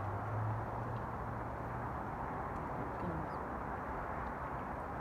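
Steady, unidentified mechanical droning from overhead, with a constant deep hum under a broad rushing noise.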